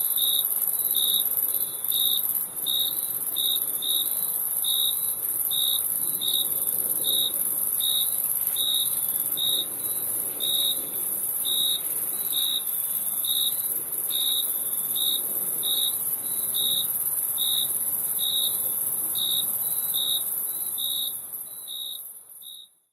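Crickets chirping: a dense, steady high trill with a regular, lower chirp repeating about one and a half times a second. The sound fades out near the end.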